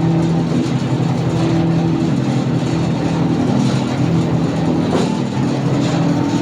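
A gulla machine for raffia plastic running with a loud, steady motor hum, with a few faint clicks.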